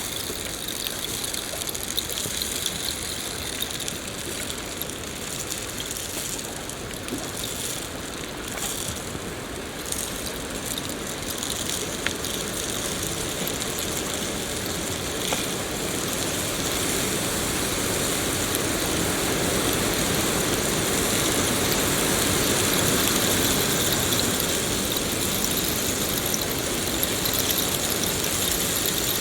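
Steady rain, an even hiss that grows a little louder about halfway through.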